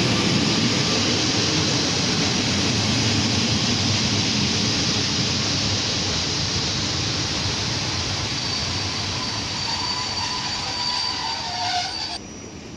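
Passenger coaches of a train rolling past along the platform: a steady rush of wheel and running noise that slowly fades. A thin high squeal from the wheels joins in over the last few seconds. The sound drops off sharply just before the end.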